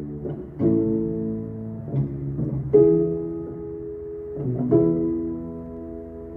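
Abandoned upright piano played with its mute pedal engaged: a few soft, muffled chords, each struck and left to ring and fade.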